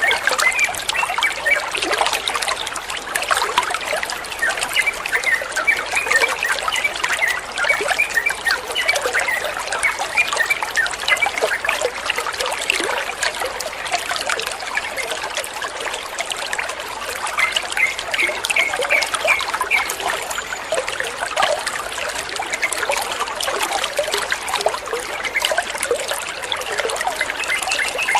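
Running water trickling and splashing steadily, with short high chirping notes scattered through it and a brief run of them a little past the middle.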